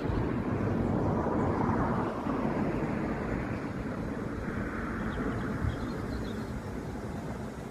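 A train running past, a steady rumble that is loudest a second or two in and eases off slightly towards the end.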